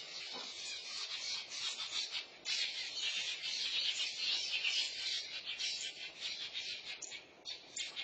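Dense, high-pitched chirping of birds and insects, a little louder through the middle.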